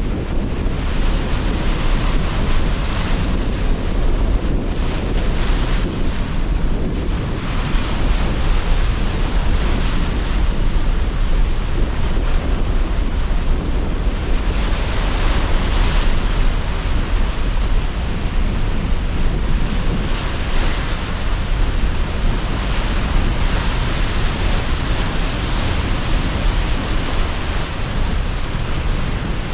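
Sea surf breaking and washing with strong gusting wind, a continuous rushing noise with a deep rumble that swells and eases every few seconds.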